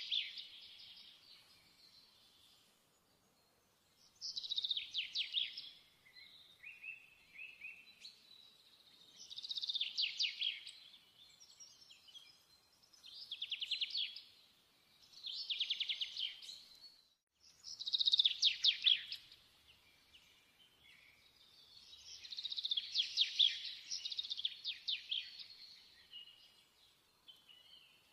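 A small songbird singing in short, fast trilling phrases, repeated every few seconds, about eight in all.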